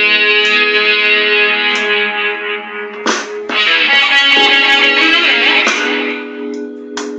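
Electric guitar played through a Digitech effects unit, strumming slow blues chords in three. The chords ring on, with fresh strums about three seconds in and again near six seconds, then fade toward the end.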